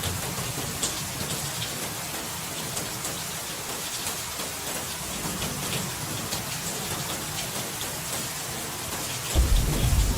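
Steady rain with individual drops pattering. A deep rumble of thunder comes in near the end.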